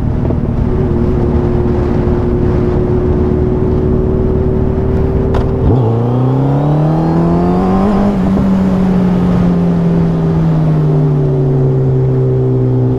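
Suzuki Hayabusa's inline-four engine running under way. About halfway through, the engine note changes sharply and rises for about two seconds, then slowly falls as the throttle eases.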